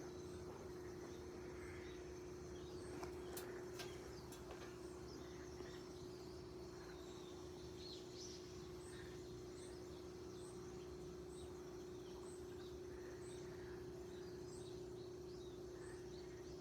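Faint morning birdsong: small birds chirping, one repeating a short high note over and over in the second half. A steady low hum runs underneath, with a few light clicks a few seconds in.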